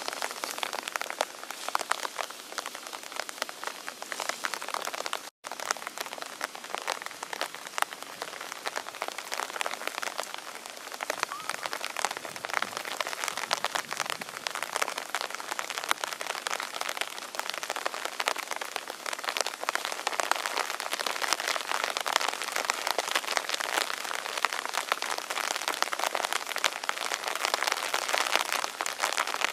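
Steady rain falling on tree foliage: a dense patter of drops with no break except a momentary dropout about five seconds in.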